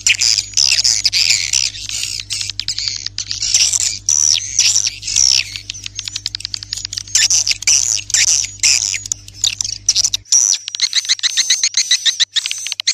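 Swiftlet call recording of the kind played as a lure for swiftlet houses: dense, fast chirping and twittering in quick clusters. A low steady hum underneath cuts off about ten seconds in.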